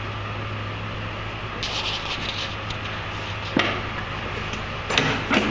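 Steady low hum with intermittent rubbing and scraping handling noises and a couple of light knocks; the tractor's diesel is not yet running.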